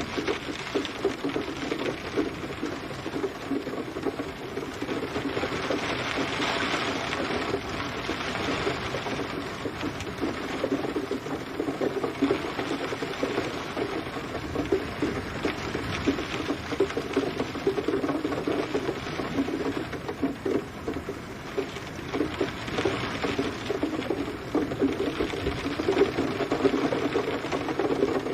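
Steady rain: a dense, continuous patter of many small drops hitting a surface.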